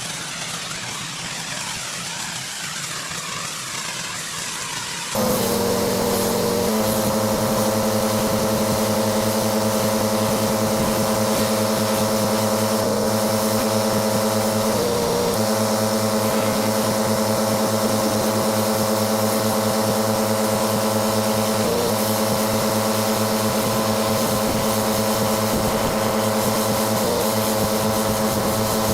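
Pressure washer's gas engine running at a steady pitch under the hiss of the spray, dipping briefly in pitch a few times. For the first five seconds there is only a quieter spray hiss without the engine tone, and then the loud engine sound cuts in suddenly.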